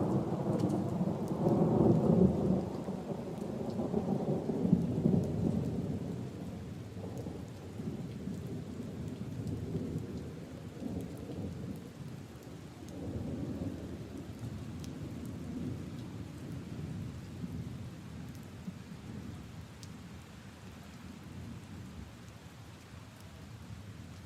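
A long roll of thunder over steady rain: the rumble is loudest in the first few seconds, then slowly fades away, leaving rain pattering on puddles and leaves.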